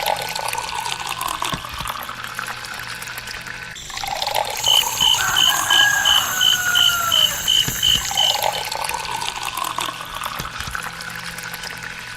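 Water running and splashing steadily, with a run of about a dozen quick high beeps in the middle.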